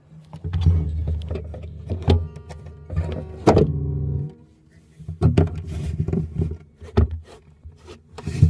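Guitar strings plucked and left ringing on low notes, mixed with irregular knocks and clicks of handling. The ringing stops about four seconds in and starts again about a second later.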